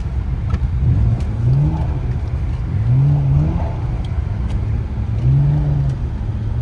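BMW 335i's turbocharged straight-six revving in three rising surges over a steady low rumble, as the car is pushed into a drift on snow.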